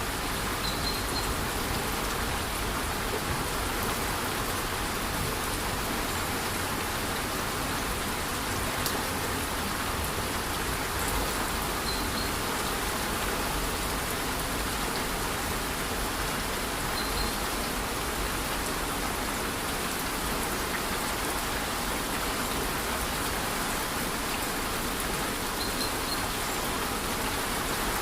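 A waterfall rushing in a rainforest during light rain, an even steady noise. Short, faint, high double chirps come through four times.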